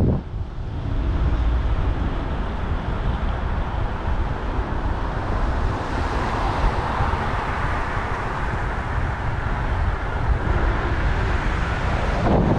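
Wind buffeting the microphone on a moving bicycle over street traffic noise. A broader rush of noise swells in the middle and fades again.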